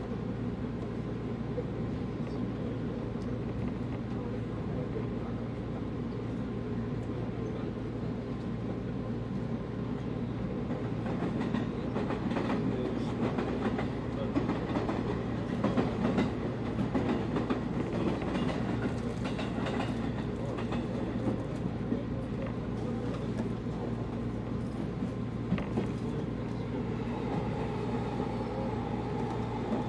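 185 series electric train running, heard from inside the carriage: steady rumble and hum, with the wheels clicking over rail joints through the middle stretch. A steady higher tone comes in near the end.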